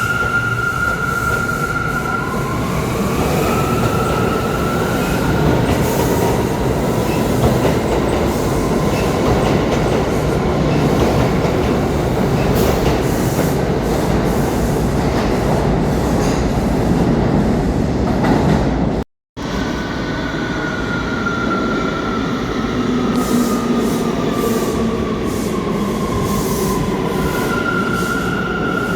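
New York City subway train running through the station: a steady rumble of wheels on rail, with an electric motor whine that glides in pitch near the start and falls slowly in the later part. The sound drops out completely for a moment about two-thirds through.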